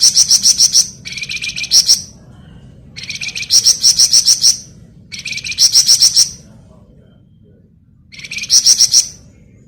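Flamboyan songbird singing its rapid rattling 'ngebren' song: five loud bursts of fast, evenly repeated high chattering notes, each about a second long, with short pauses between them and a longer pause before the last burst.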